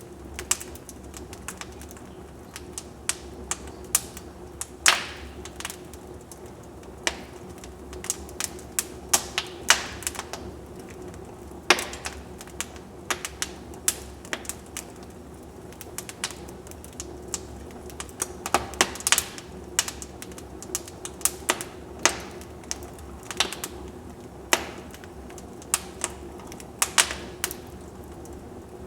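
Wood fire burning in a fireplace, crackling with irregular sharp snaps and pops over a steady low rush of flame.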